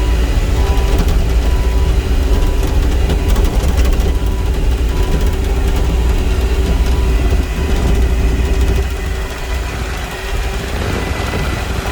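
Bobcat E35 mini excavator's diesel engine running, with an intermittent beep repeating a little under twice a second for the first few seconds. The engine sound drops somewhat near the end.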